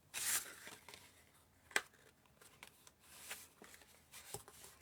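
Cardstock being folded and handled by hand: brief papery rustles near the start and again past the middle, with a sharp tap or click about two seconds in and a few light ticks near the end.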